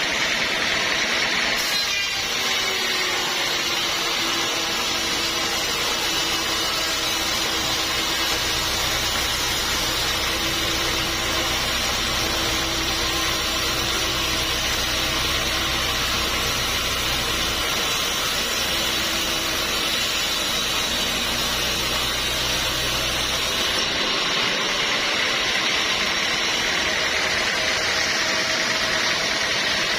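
Sawmill machinery running steadily. A lower hum and a steady tone join about two seconds in and drop away a few seconds before the end.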